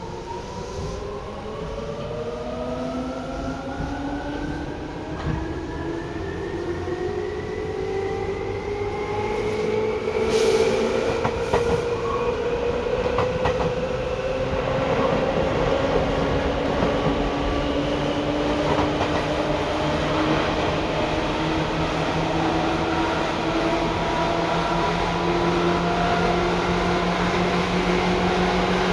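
Seibu 2000 series electric train accelerating, heard from inside the car. Its motor and gear whine rises in pitch over the first dozen seconds, then settles into a steady running hum with rail noise as it gets louder. There is a single sharp clack about ten seconds in.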